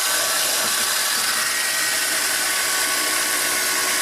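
Wire brush wheel spinning on an electric drill, scrubbing caked-on gunk off a metal drill bit: a steady, loud, high hiss with faint steady whining tones.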